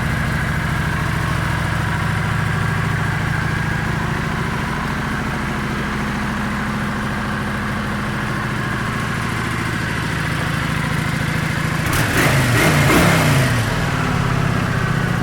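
Kawasaki Vulcan 900 Custom's V-twin engine idling steadily, with a short blip of the throttle about twelve seconds in that briefly raises the revs before it drops back to idle.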